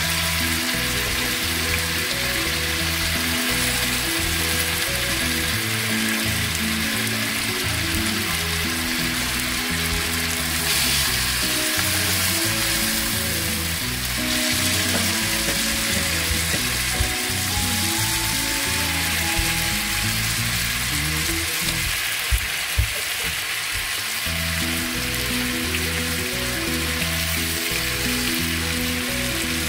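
Tandoori-marinated chicken legs sizzling steadily in oil in a pan, with a few sharp clicks late on. Background music plays underneath.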